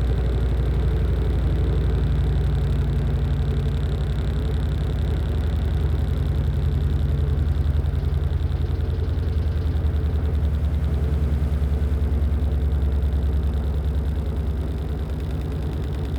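LG top-loading washing machine in its spin cycle: the drum spinning with a steady low motor hum and a fast, even vibration, easing slightly near the end.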